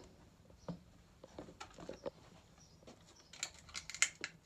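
Irregular clicks and knocks of the stairlift chair being handled and loaded back onto its carriage, with a louder run of knocks near the end.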